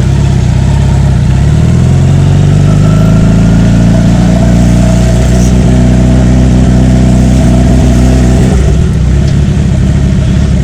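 Kawasaki Z900's inline-four engine pulling away: its note rises over the first two or three seconds, then holds steady, with a sudden drop in revs about eight and a half seconds in.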